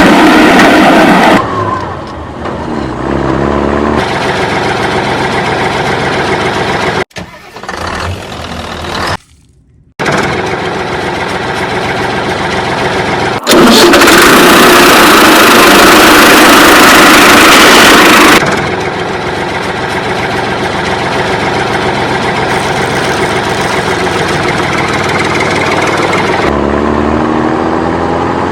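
Engine sounds for toy construction vehicles, a mini JCB and a toy tractor and lorry: starting, idling and revving, joined in several abruptly cut segments with a brief near-silent gap about nine seconds in.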